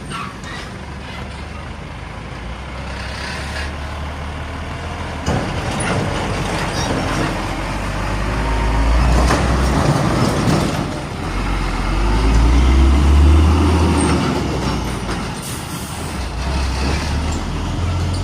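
Heavy diesel trucks passing on a busy road, a deep engine rumble with tyre and road noise that swells twice as trucks go by, the second time loudest.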